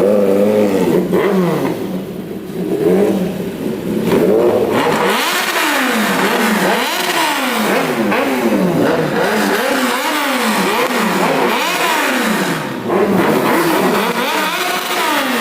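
Kawasaki ZX-10R inline-four with a Racefit aftermarket exhaust being revved hard while standing, in quick repeated throttle blips about once a second, each pitch rising and falling back.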